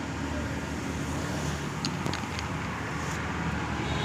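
Steady low rumble of road traffic, with a few faint clicks about two seconds in.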